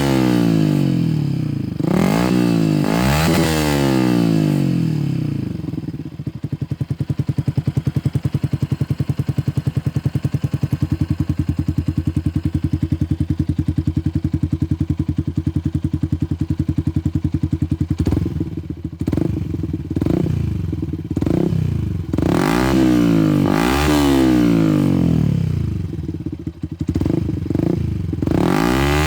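Yamaha Xabre's single-cylinder 150 cc engine through an aftermarket Tridente F22 carbon exhaust, revved in quick bursts, settling to a steady idle for about twelve seconds, then revved repeatedly again.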